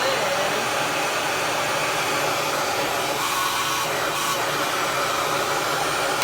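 Revair reverse hair dryer running steadily, its fan pulling air and hair into the tube with a loud, even rushing noise.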